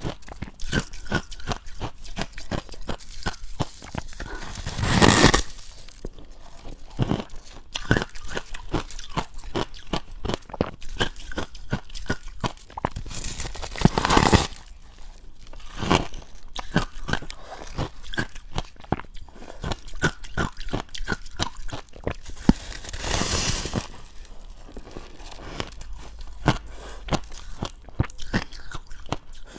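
Close-up crunching and chewing of dry, powdery freezer-frost ice as a steady run of rapid crunches. Three louder, longer crunches come about nine seconds apart.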